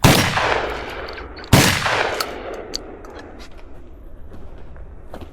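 Two shotgun shots about a second and a half apart, each followed by a long fading echo.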